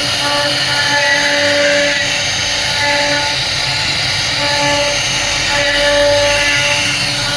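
CNC router spindle running and cutting into wood: a steady whine over a rough cutting noise. The pitch holds while the noise rises and falls slightly as the bit moves.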